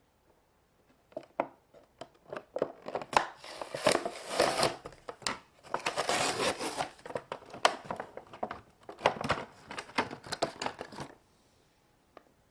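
Plastic and cardboard packaging crinkling and tearing, with sharp clicks and snaps, as a boxed diecast toy car is opened. It starts about a second in and stops near the end.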